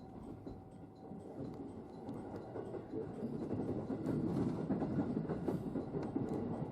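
Electric commuter train's running noise heard from inside the front car: a steady rumble of wheels on rail that grows louder about halfway through, with some rattling.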